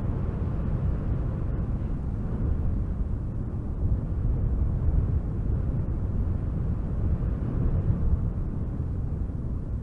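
Strong wind gusting through a spruce forest, a steady deep rushing noise that swells and eases a little.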